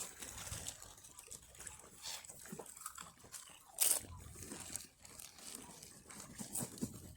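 Potato crisp packet crinkling and crisps crunching, in scattered short crackles with one louder rustle about four seconds in.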